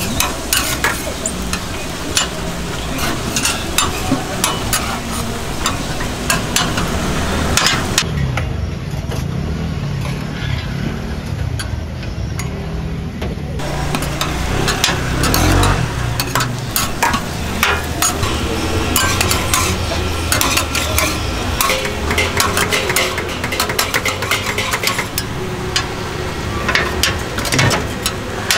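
Vegetable egg rolls pan-frying: a steady sizzle with frequent sharp clicks and scrapes of metal utensils working the pan.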